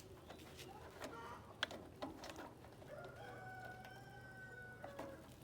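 A single long, steady pitched bird call lasting about two seconds, dropping at its end, after a few sharp taps and knocks.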